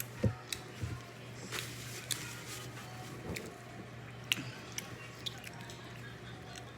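Close-miked eating: chewing and biting with scattered small wet clicks and smacks, over a steady low hum.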